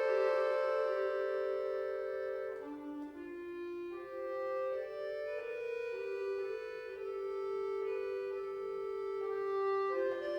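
Accordion playing sustained chords, its notes stepping to new pitches every second or so.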